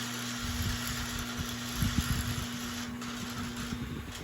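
Lionel Mijack crane accessory's small electric motors and gearing running unevenly as the crane moves, over a steady electrical hum.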